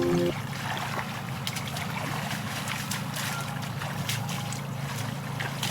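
Background music cuts off just after the start; then a small motor runs with a steady low hum, with scattered light clicks over it.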